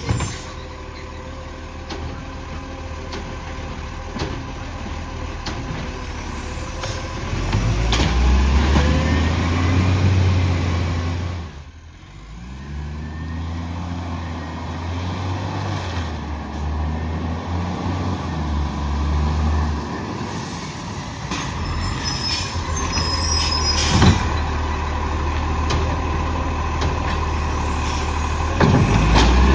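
Garbage truck's diesel engine running, revving up about eight seconds in, dropping away sharply about four seconds later, then climbing again and revving up once more near the end. A sharp knock about three-quarters of the way through.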